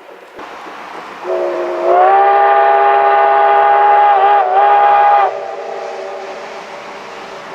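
Steam locomotive whistle of the SL Ginga's C58 239 sounding one long blast. It starts lower, rises in pitch about two seconds in, wavers briefly near the end and stops just over five seconds in. A steady rushing hiss runs under it.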